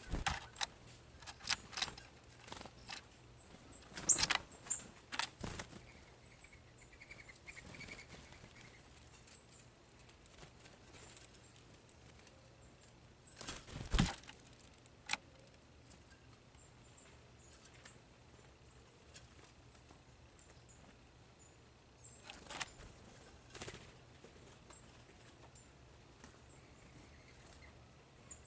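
Scattered sharp taps and clicks of birds feeding at a seed feeder, coming in short clusters, with a faint high chirp about seven seconds in.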